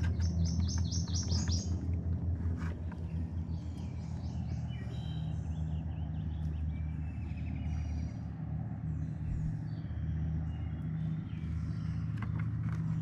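Songbirds chirping and calling: a quick run of high chirps at the start, then scattered calls, over a steady low droning hum.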